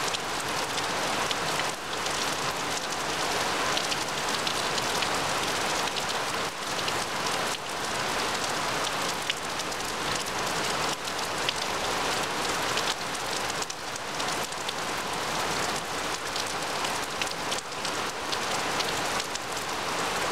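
Heavy rain falling steadily on a grass lawn and trees, an even hiss with the tick of single drops landing close by.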